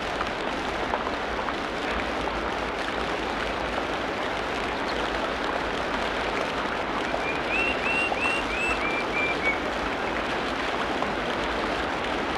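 Tropical rainforest ambience: a steady, dense hiss of rain or running water, with a bird giving a quick series of about eight short notes a little past the middle, the last few slightly lower in pitch.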